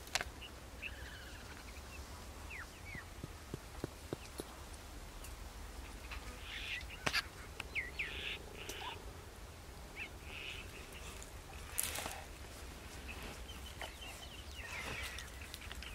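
Birds calling: scattered short chirps and quick gliding calls, with a few sharp clicks over a steady low hum.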